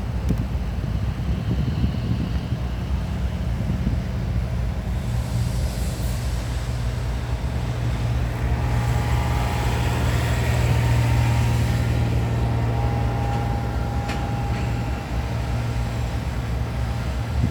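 Diesel-electric locomotive engines running with a steady low hum that swells louder about halfway through, then eases back.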